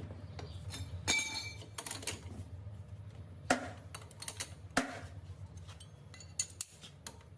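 Hand tools clinking and tapping on bare engine metal during the teardown: a series of sharp, irregular metallic clicks, a few louder knocks among lighter ticks, over a steady low hum.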